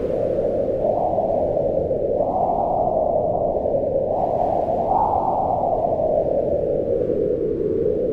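Strong wind howling, a steady moaning noise whose pitch slowly rises and falls with the gusts, highest about five seconds in.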